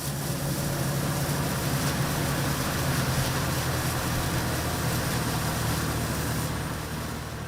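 A boat's engine running steadily with a low drone, fading away near the end.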